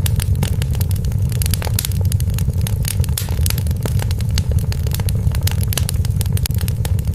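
Log fire in a fireplace crackling and popping, with many sharp, irregular snaps over a steady low rumble of the burning.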